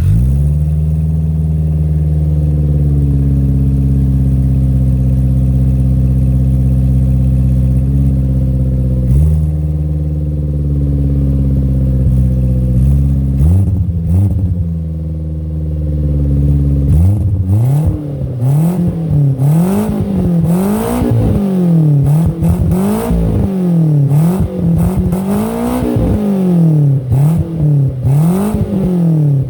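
Car engine with a one-off 100 mm custom exhaust firing up and settling from a fast idle to a steady idle, with two short throttle blips. From just past the middle it is revved up and down over and over, about one rev every second and a half.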